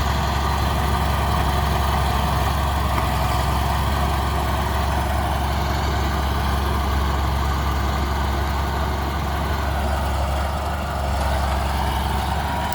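Bulldozer's diesel engine running steadily with a deep, even rumble.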